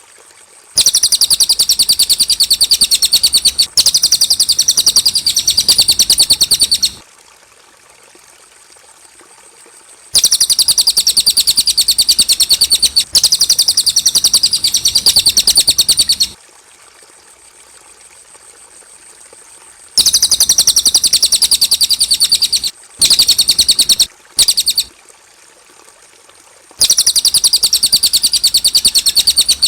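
Cililin bird singing: long phrases of very rapid, high-pitched trilling notes, each lasting several seconds, with pauses of a few seconds between them and a couple of short bursts in the second half.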